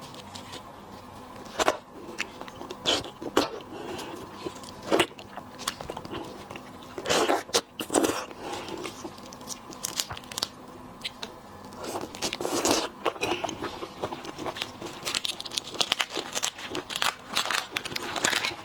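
Shrimp shells and heads cracking and crunching close to the microphone as they are peeled apart and bitten into, with chewing. The cracks come irregularly, in several dense bursts of crackling.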